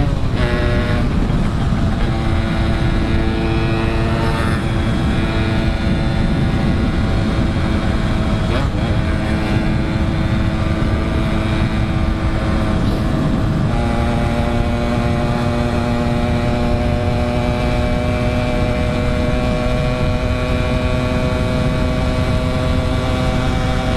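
Yamaha RX-King two-stroke single-cylinder motorcycle engine running under way at cruising speed. Its note drops sharply right at the start after a rising rev, which sounds like an upshift, shifts a few more times, then steps up about halfway through and holds steady. Heavy wind rumble on the microphone runs underneath.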